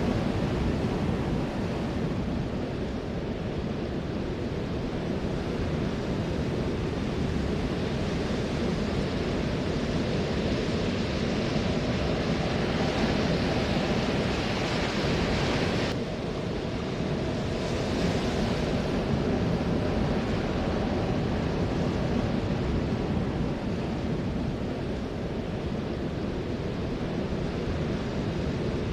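Ocean surf: a continuous wash of breaking waves that swells, drops off suddenly about halfway through, then builds again.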